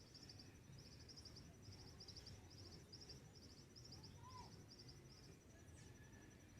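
Faint dawn ambience: high, rapid chirping in short groups, repeating about two to three times a second until about five seconds in, over a steady faint high tone and a low rumble, with one soft lower bird note near four seconds in.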